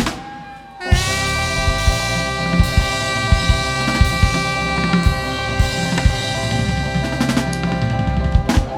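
Live band holding a final sustained chord while the drummer plays rolls and cymbal and snare hits under it, closing out the song with a last hit near the end.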